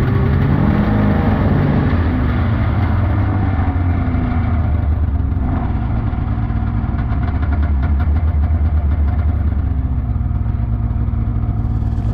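Polaris 600cc snowmobile engine running under way; its pitch falls over the first couple of seconds, then holds steady.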